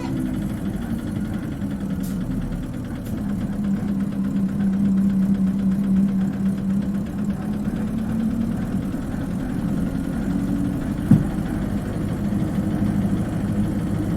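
Diesel engine of an Isuzu Cubic KC-LV380N city bus, heard from inside the bus, running steadily as a low hum that grows a little louder about four seconds in. A single short knock comes about eleven seconds in.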